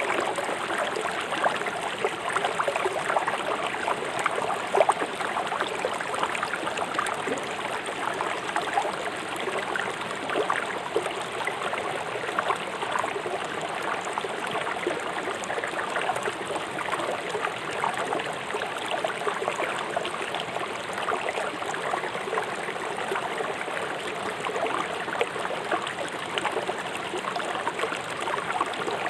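Swift river water rushing and splashing over stones in a steady, dense babble.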